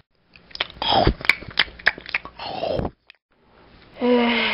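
A dog crunching and chewing its dry food, a quick run of crisp crunches that stops about three seconds in. Near the end comes a short voiced sound that falls in pitch.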